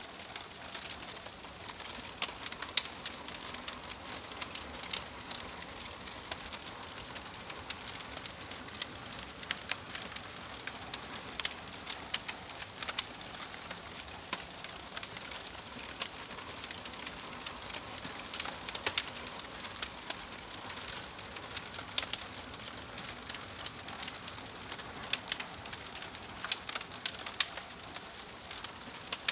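Fire crackling: a steady hiss broken by irregular sharp pops and snaps.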